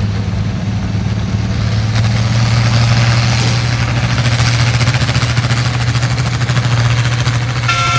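Pulling tractor's engine running hard and steady at full throttle under load during a pull. Near the end a horn starts sounding.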